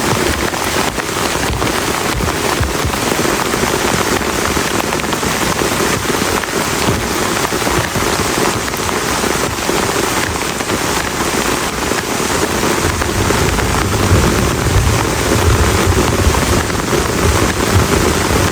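Heavy rain beating down in a dense, steady hiss of countless drop hits on the camp shelter. About two-thirds of the way through, a low rumble of thunder joins in under the rain.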